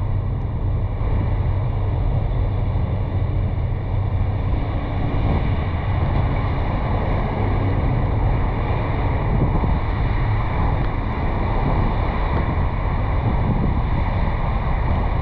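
Steady wind rushing over a roof-mounted GoPro on a moving car, over a constant low road rumble.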